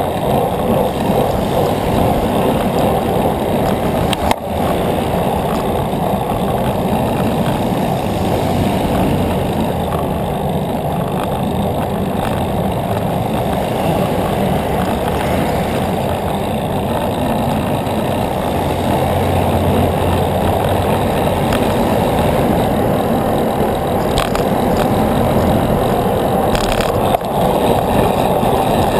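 Steady rushing wind and road noise from a bicycle in motion, heaviest in the low range, with one brief dip about four seconds in.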